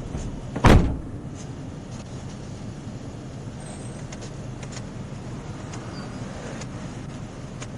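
Steady low hum of a vehicle running, with one loud thump just under a second in and a few faint clicks after.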